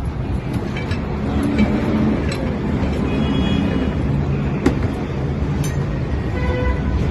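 Steady low rumble of vehicle engines and street traffic, with a few faint clinks.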